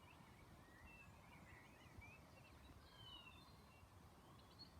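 Near silence with faint birds chirping: scattered short calls sliding up and down in pitch, over a low outdoor hush.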